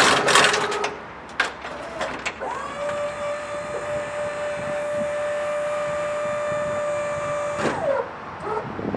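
Truck lift gate's hydraulic pump unit: a clatter, then a click, then the pump motor spins up and runs with a steady whine for about five seconds before winding down and stopping.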